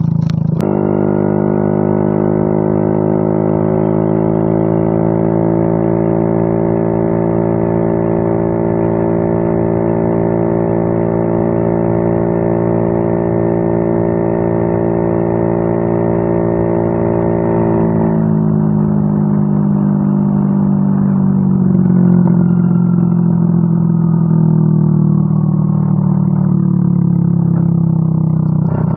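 Yamaha Mio M3 scooter's single-cylinder engine running through a WRX aftermarket exhaust, held at steady revs for about eighteen seconds. The revs then drop and wander, with slow falling slides in pitch near the end.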